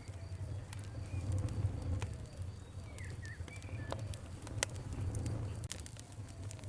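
Fire crackling, with scattered sharp pops over a steady low rumble. A few short bird chirps come through, about a second in and around three seconds in.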